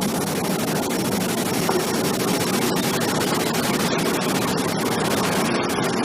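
Steady loud rushing noise inside an airliner cockpit during a stormy approach, with no break or change.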